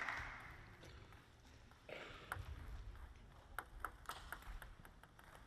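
Table tennis ball clicking: a run of sharp taps of the celluloid-plastic ball on table and bat, a few per second, as applause dies away at the start.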